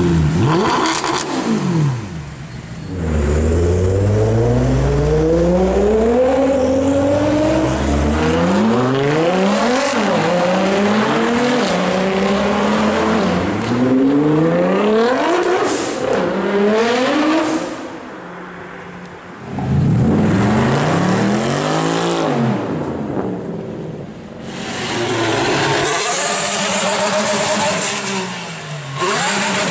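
High-performance car engines revving and accelerating hard, one car after another. Each engine's pitch climbs steeply and drops back with every gear change, with brief lulls between cars.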